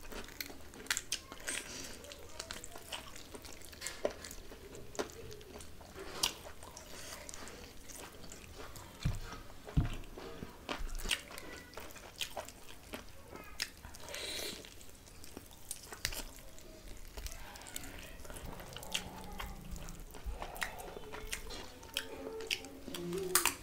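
Close-up eating sounds: chewing and biting of rice and chicken, with many irregular wet mouth clicks and smacks. Two louder thumps come near the middle.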